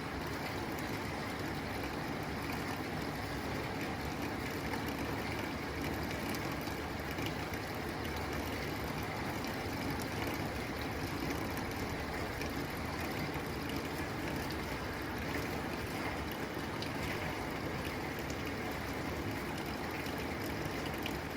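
Steady rain falling on a tin roof, an even wash of noise with faint scattered drop ticks.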